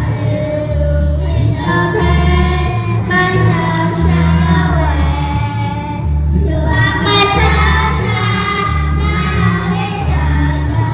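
Music: children singing a song over an amplified backing track with a steady bass beat.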